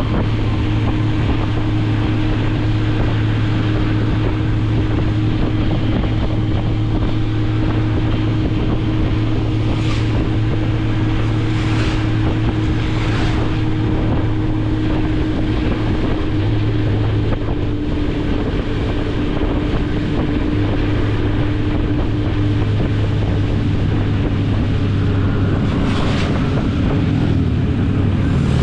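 Motorcycle engine running at a steady cruising speed, with wind rushing over the microphone. A few brief hisses come around the middle and again near the end.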